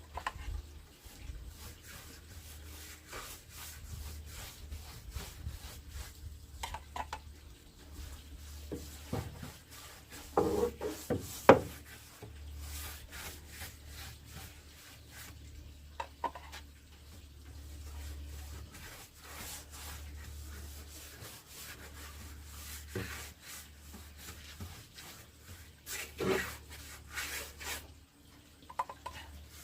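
Wood being handled and worked: rubbing and scraping of wood on wood with scattered light knocks, a couple of louder knocks about eleven seconds in and another near 26 seconds, over a steady low hum.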